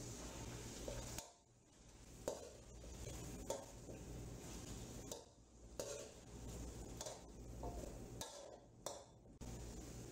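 A perforated metal spoon clinking and scraping against a metal karahi as chicken pieces are stirred, several sharp irregular knocks over a steady low hum.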